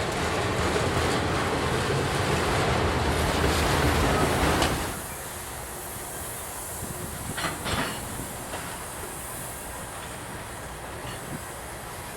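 Freight train cars rolling past on the rails, loud for the first five seconds or so, then dropping suddenly to a lower, steadier rumble with a couple of short clanks a little later.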